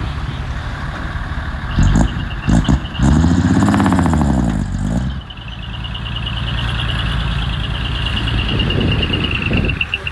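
Heavy earthmoving machine's engine running, with a couple of metal clanks about two seconds in. The engine revs up and back down between about three and five seconds in. A thin high whine runs through the second half.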